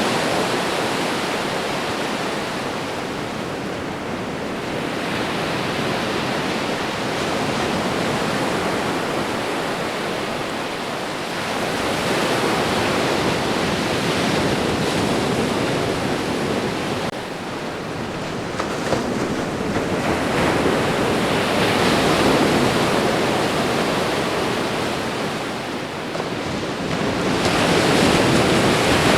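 Ocean waves breaking and washing onto a shore: a continuous hiss of surf that swells and eases every several seconds.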